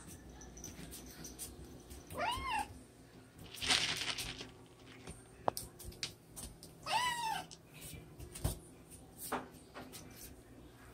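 Siamese cat meowing twice, each call rising and then falling in pitch, with a short burst of noise between the two calls and a few light clicks.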